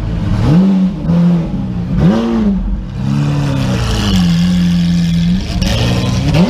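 Lamborghini Aventador V12 revved in several short blips, its pitch rising and falling, then held steady for a second or so before climbing again near the end.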